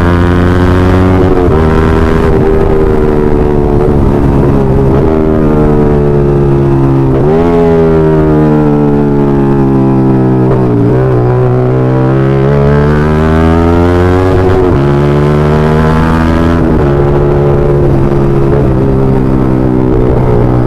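Yamaha MT-15's single-cylinder engine running loud through an aftermarket full-system exhaust while being ridden. The pitch climbs and drops back at each gear change, falls slowly for a few seconds in the middle as the bike eases off, then climbs again.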